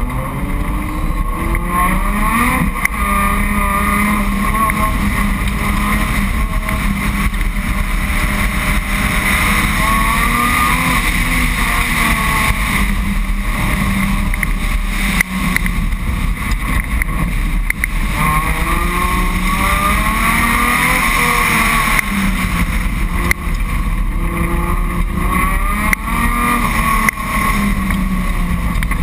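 Car engine driven hard on an autocross run, its revs climbing and dropping again several times over a steady rushing noise.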